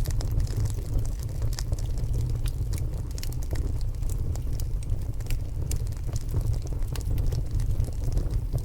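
Log fire burning in a fireplace, crackling with many quick, irregular snaps over a steady low rumble.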